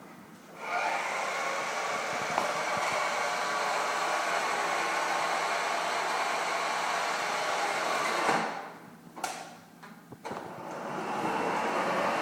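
Electric motor and gears of a remote-control toy pickup truck whirring as it drives, for about eight seconds, then stopping. A sharp click follows, and the motor starts whirring again near the end.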